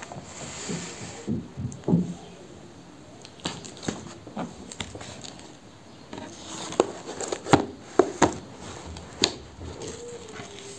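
Scattered clicks and light knocks with some rustling, the sound of objects being handled, coming more often in the second half.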